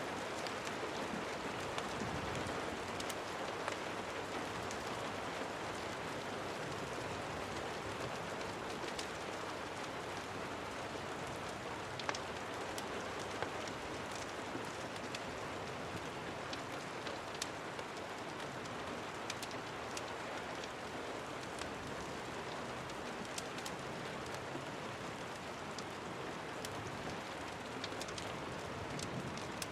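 Steady rain falling, an even hiss with scattered sharp ticks and drips.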